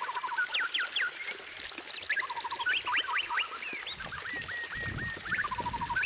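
White-rumped shama singing in phrases of quick, sharply sweeping whistled notes, with runs of short repeated notes between them.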